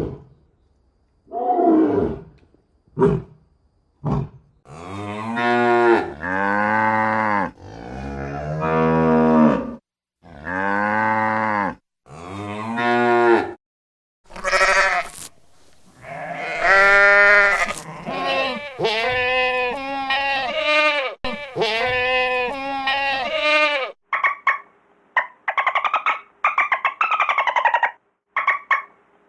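Cattle mooing over and over, a string of separate calls, most about a second long, each rising and then falling in pitch. Near the end the moos give way to a quicker run of short, higher calls from another animal.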